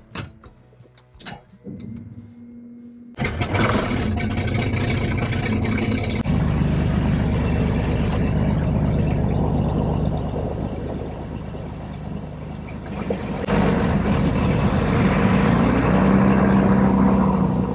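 Piston engines of an L-200 Morava twin-engine aircraft being started: a few clicks and a faint starter whine, then an engine catches suddenly about three seconds in. The sound steps up again about six seconds in, then runs steadily and rises in revs near the end.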